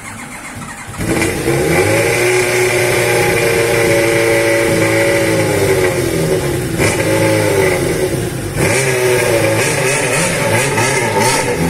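Kawasaki ZXR750 sport bike's inline-four engine revved up about a second in and held at a steady high pitch. The revs sag and come back up twice in the second half.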